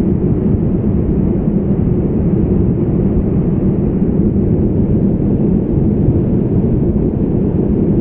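Banganga river (Baner Khad) in flood, its swollen water rushing close by in a steady, loud, low rumble.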